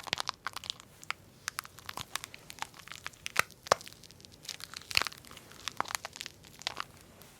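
Toy packaging crinkled and torn open by hand: a run of irregular sharp crackles and snaps.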